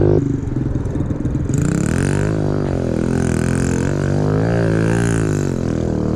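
Small motorcycle engine running, its pitch rising and falling several times as the throttle is opened and eased off.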